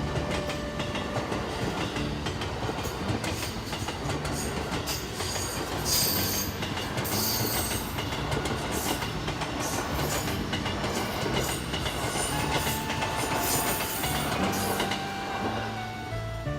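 A train passing close by on the JR Kyoto Line, a steady rumble of wheels on the rails with sharp high-pitched flares several times along the way.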